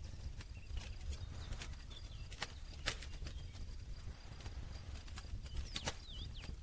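Campfire of burning wood crackling: irregular sharp pops and snaps, the loudest a little before the 3-second mark, over a low steady rumble, with a few faint short high chirps.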